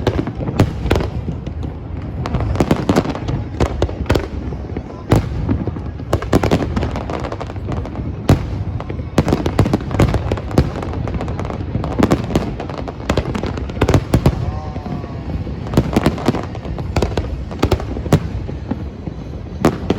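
Fireworks display: a fast, irregular run of shell bursts and bangs, one after another with no pause.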